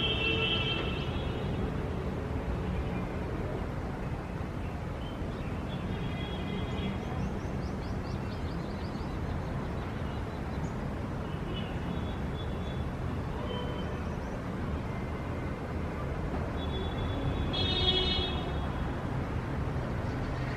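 Steady low rumble of city traffic, with short high-pitched bird chirps and trills every few seconds, the loudest near the end.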